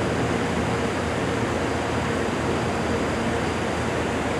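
Amtrak P42DC diesel locomotive running steadily while standing: an even mechanical din with a faint constant hum.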